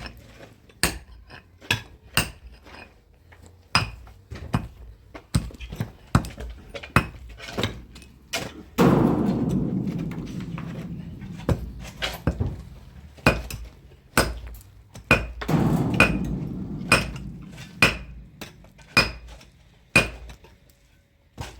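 Hammer striking a steel chisel against masonry, about one blow a second with a metallic ring, cutting channels for plumbing pipes. Twice a longer rush of noise fades out.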